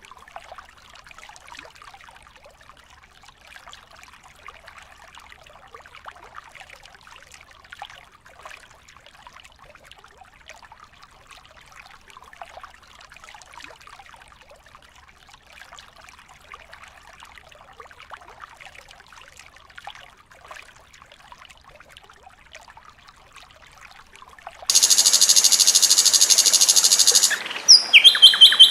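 Recorded songbird song: a faint, dense, continuous chatter of song, then, about 25 s in, a sudden loud sustained trill, followed near the end by a fast run of repeated notes.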